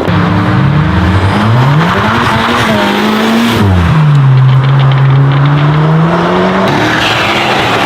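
High-performance sports car engine accelerating hard: the pitch climbs, drops sharply at an upshift a little under four seconds in, then climbs again more slowly until it breaks off near the end.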